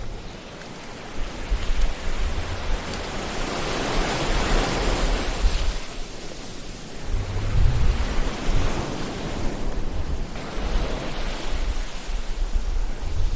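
Ocean waves washing in continuously, with a wave swelling and breaking a few seconds in, over a low rumble of surf.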